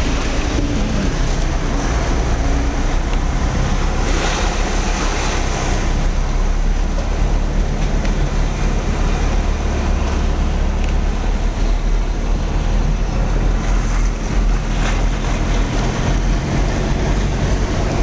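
A vehicle engine runs steadily as it moves through floodwater, with water rushing and washing around it.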